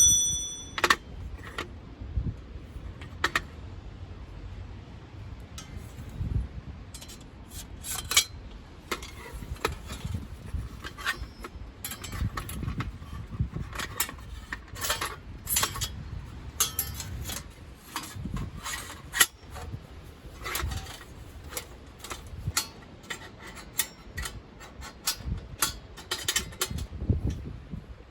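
Metal items clinking and rattling irregularly, short sharp clicks scattered throughout, with occasional low thumps.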